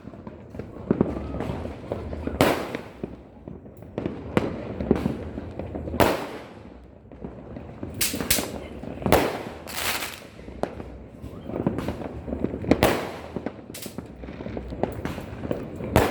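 Fireworks and firecrackers going off across a city: irregular sharp bangs, roughly one to two seconds apart, each trailing off in an echoing rumble.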